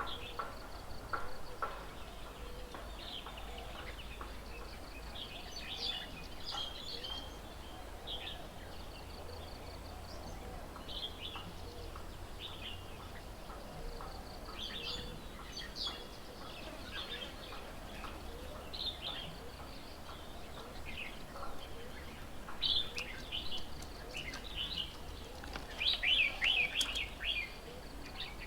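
Several wild birds chirping and calling in short, scattered notes, with a busier run of chirps near the end, over a steady low rumble.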